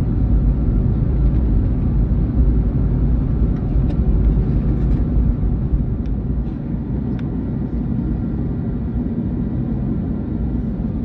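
Cabin noise inside an Airbus A321neo taxiing to the gate after landing: a steady low rumble from the idling engines and the rolling airframe, with a few faint clicks.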